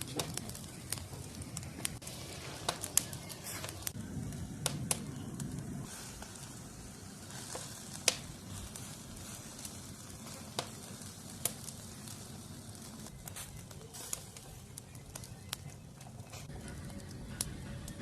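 Cooking fire crackling, with irregular sharp pops scattered over a steady low rustle.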